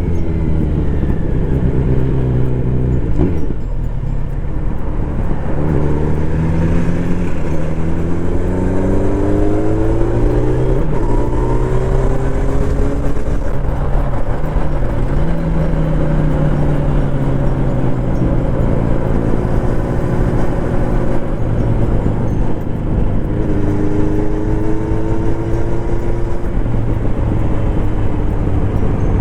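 Kawasaki Z900RS inline-four engine through its stock full exhaust system, running on the road. Its pitch climbs several times as it accelerates and drops back briefly between, at gear changes and slowdowns.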